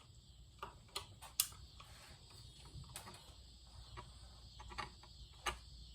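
Quiet room with a low hum and a few faint, scattered clicks and taps, the sharpest about a second and a half in.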